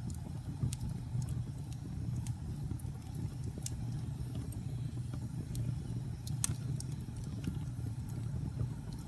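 Wood fire burning in a fireplace: a steady low rumble of flames with scattered sharp crackles and pops, the loudest pop about six and a half seconds in.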